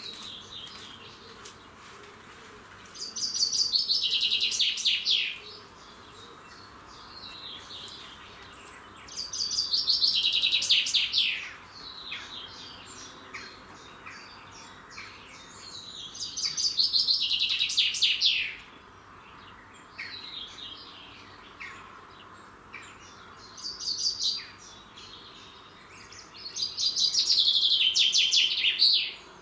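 Songbird singing the same song five times, about every six seconds. Each song is a rapid run of notes about two seconds long that falls in pitch. Fainter short calls from other birds come in between.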